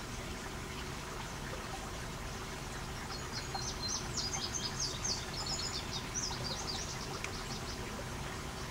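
A bird sings a quick twittering run of short, high notes from about three seconds in until past the middle, over a steady background hiss.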